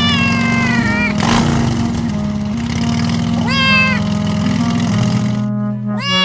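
Cartoon cat meowing three times over background music: a long falling meow at the start, another about three and a half seconds in, and a short one at the end, with a brief swish about a second in.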